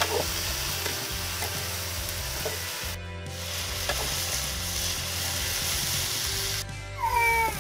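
Okra sizzling as it stir-fries in oil in a steel karahi, with a metal spatula scraping and tapping the pan. The sizzle drops out briefly twice, and a short, louder gliding tone sounds near the end.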